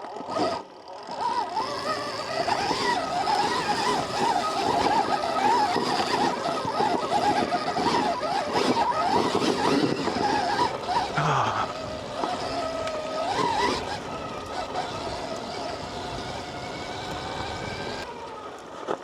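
Stark Varg electric dirt bike's motor whining under throttle, its pitch wavering quickly up and down, fading out shortly before the end.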